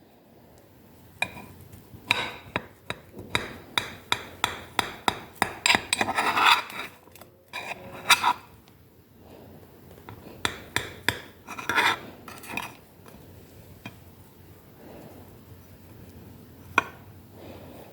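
A quick run of knocks and scrapes, like a utensil working against a dish or pan. It is busiest in the first two-thirds, then thins to a few scattered taps.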